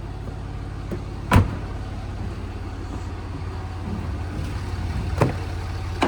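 2012 Jaguar XF's V6 diesel engine idling steadily with an even low rumble. Two sharp knocks cut across it, a loud one about a second and a half in and a lighter one near the end.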